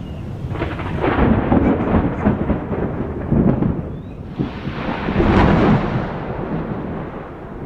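Thunder rolling in two long rumbles, the first starting about half a second in and the second about four seconds in, louder at its peak. Under them runs a steady hiss of rain.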